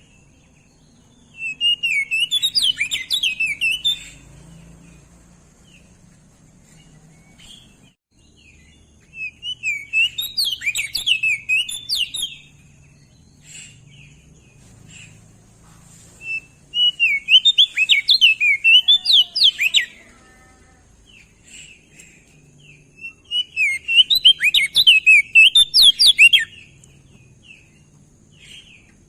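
Opior jambul (crested white-eye) singing in four bouts of rapid, varied twittering and warbling, each lasting about three seconds, with pauses of several seconds between them.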